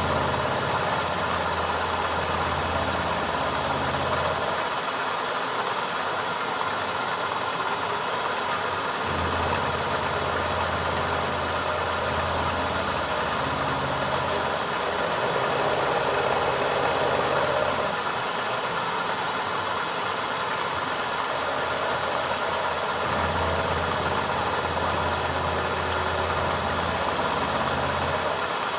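A machine running steadily, with a low hum that cuts in and out every few seconds.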